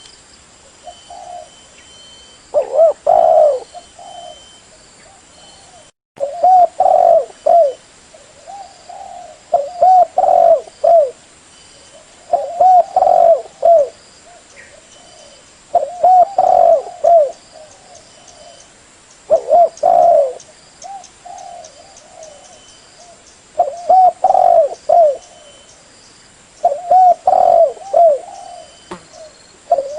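Spotted dove cooing: a short phrase of a few low coos, repeated about every three and a half seconds.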